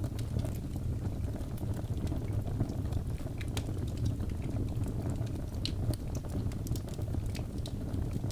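Wood fire burning in a fireplace: a steady low rumble of the flames with frequent small, sharp crackles and pops from the logs.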